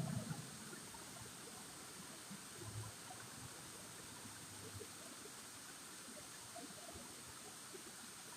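Faint, steady rush of flowing water, with a soft low thump a little under three seconds in.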